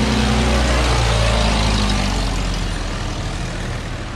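Car engine running close by as the car pulls up, a steady low hum that eases off in the second half.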